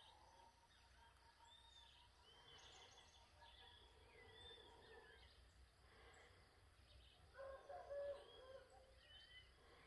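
Faint birdsong: small birds giving short, repeated arched chirps. A brief louder, lower-pitched call comes about seven and a half seconds in.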